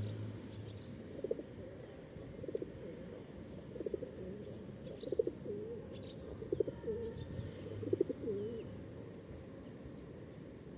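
A pigeon cooing, about six low, wavering coos spaced roughly a second and a bit apart, with faint high chirps from small birds behind.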